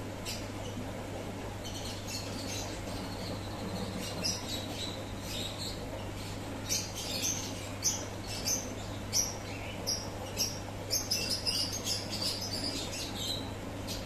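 Small birds chirping in short high calls, a few at first and then coming thick and fast from about halfway through, over a steady low hum.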